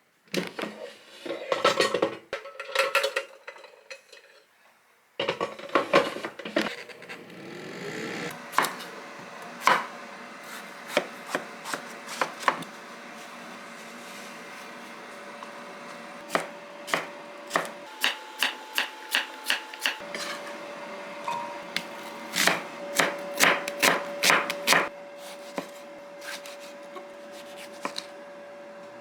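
Food preparation: a knife knocking on a cutting board, at times in quick runs of strokes, with some handling and clinking of kitchen things, over a steady hum.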